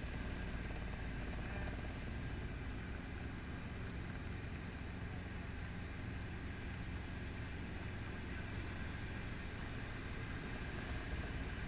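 Training helicopter's engine and rotor running steadily, a constant mechanical drone with an even pitch.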